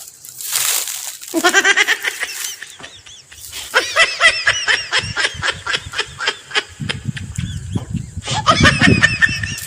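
High-pitched laughter in three runs of rapid pulses: about a second in, from about three and a half to six and a half seconds, and again near the end. A crisp crunching noise comes in the first second, and low chewing-like thumps sit under the last run.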